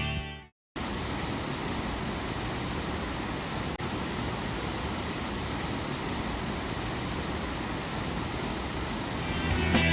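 Waterfall: a steady, even rush of falling water that starts abruptly just under a second in, after a brief silence, and fades under returning music near the end.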